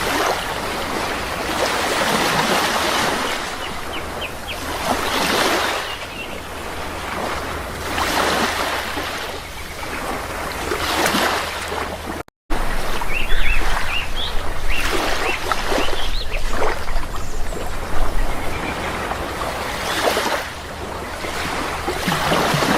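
Sea waves washing ashore in rushing surges every few seconds, with a few faint, short bird chirps. The sound drops out for an instant about twelve seconds in.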